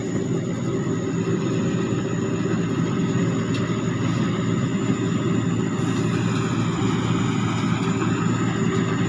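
Sakphatthana SS-300 combine harvester running steadily while harvesting rice. Its single-turbo Hino J08C diesel engine is under working load, with a steady high whine over the engine noise.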